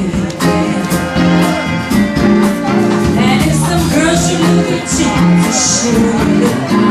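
Live band playing a blues-rock number with electric guitar, bass and a steady drum beat.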